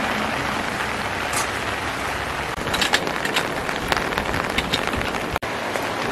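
Steady rain falling, with scattered sharp drip taps around the middle. The sound cuts out for an instant a little after five seconds in.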